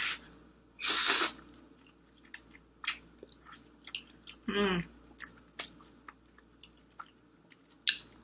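A person eating spicy instant noodles: a loud slurp of noodles about a second in, then chewing with many small wet mouth clicks. A short hummed sound comes about four and a half seconds in.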